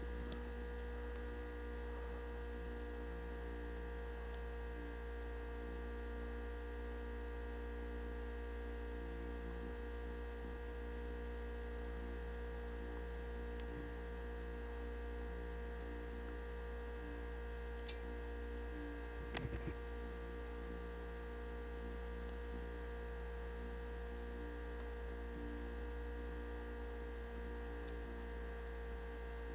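Steady electrical hum made of several unchanging tones over a low drone, with two short sharp clicks about halfway through.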